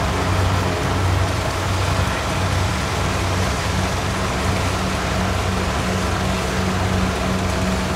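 Kubota DC70 rice combine harvester's diesel engine and threshing machinery running at a steady, even pitch.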